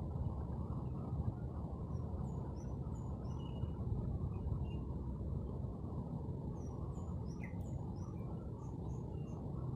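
Small birds chirping, short high calls scattered through, over a steady low background rumble.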